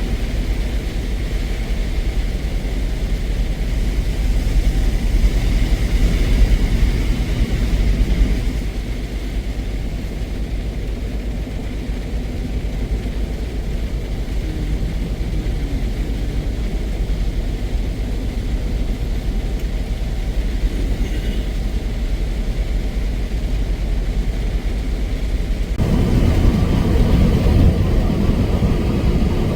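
Heavy truck driving, its engine and road noise giving a steady low rumble; near the end the rumble gets louder and rougher.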